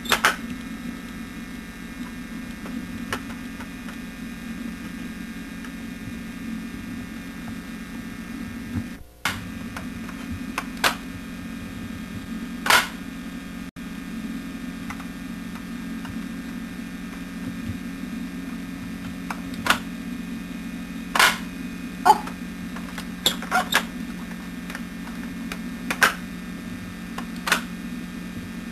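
A steady low hum with about a dozen sharp clicks and knocks scattered through it, several coming close together in the second half.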